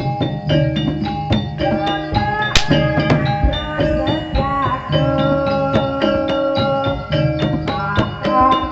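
Live gamelan music for a jaran kepang (ebeg) dance: metallophones strike an even pattern of about four notes a second over drums. There is a single sharp crack about two and a half seconds in.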